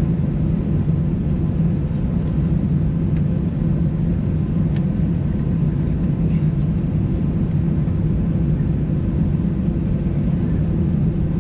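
Steady low hum of an Airbus A320 heard from inside the cabin, its engines running at idle while the aircraft holds short of the runway, with a couple of faint ticks midway.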